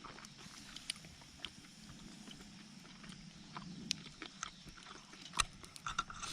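Scattered small clicks and knocks, irregular, with a sharper knock about five and a half seconds in, over a faint steady low hum.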